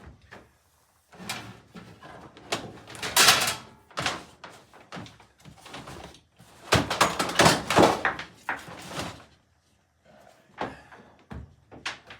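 Repeated knocks, clunks and scraping of objects being moved and handled by hand in a small enclosed space. The loudest bangs come about three seconds in and again from about seven to nine seconds in.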